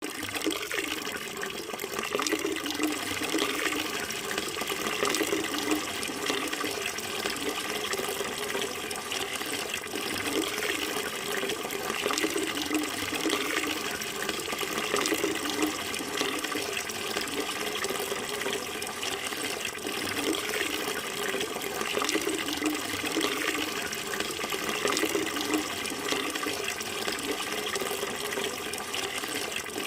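Running water flowing steadily, a continuous splashing rush that wavers slightly without stopping.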